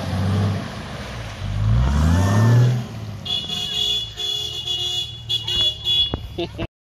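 A four-wheel-drive vehicle's engine running, then revving up and rising in pitch for about a second as it climbs an obstacle. From about three seconds in, a set of steady high tones sounds with a few clicks, and then the sound cuts off abruptly near the end.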